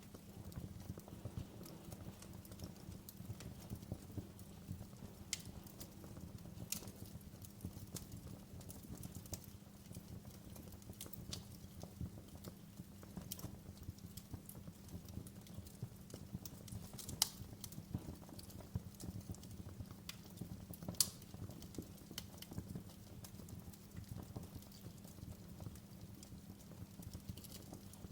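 Wood fire crackling in a fireplace: irregular sharp pops and snaps over a steady low rumble of the burning fire, with two louder pops in the second half.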